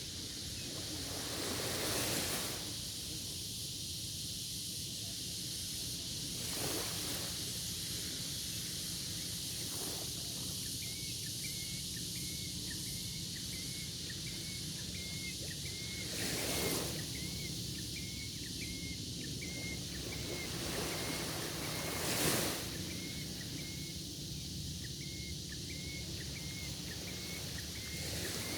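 Small sea waves washing onto the shore every few seconds over a steady outdoor hiss, with a faint high chirp repeated about twice a second through the latter half.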